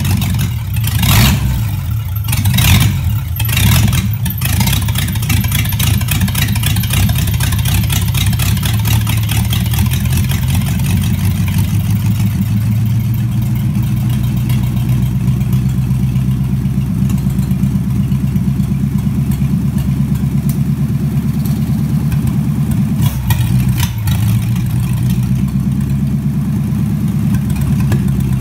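Ford flathead V8 engine running steadily on a test stand, with a few brief surges of revs in the first four seconds and another near the end.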